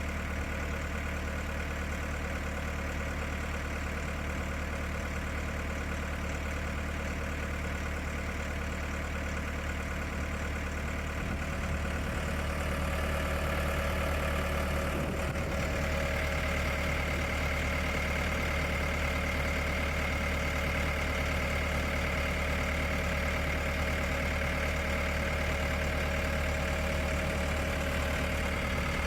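Engine running steadily at idle, getting a little louder about halfway through and then settling at a higher, steady pitch.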